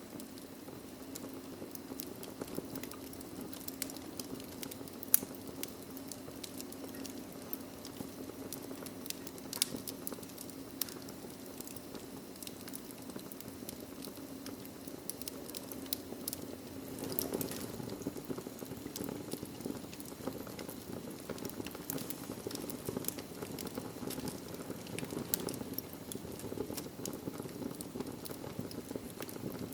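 Wood fire crackling in a fireplace: a steady low rush of burning with frequent small crackles and a few sharper pops.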